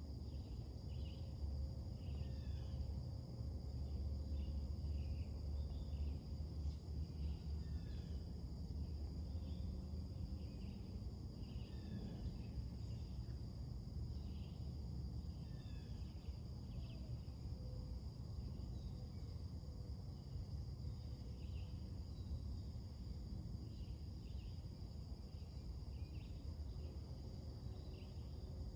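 A steady high drone of insects, crickets or the like, with birds chirping in short calls many times throughout, over a steady low rumble.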